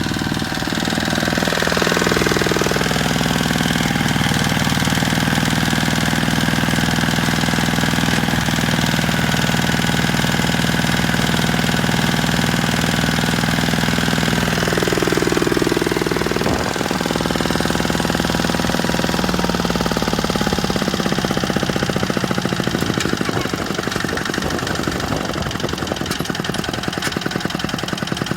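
Tractor engine running steadily and knocking, with a brief change in pitch about two seconds in and again about halfway. Near the end its firing turns into distinct, evenly spaced pulses.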